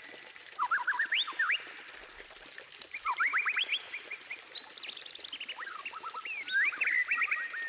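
White-rumped shama (murai batu) singing: several phrases of quick rising whistled notes, separated by short pauses, with a higher whistled phrase near the middle.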